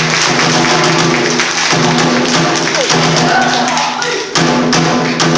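Bitchu kagura accompaniment: taiko drum strikes over a steady held pitched tone, with the strikes coming thicker near the end.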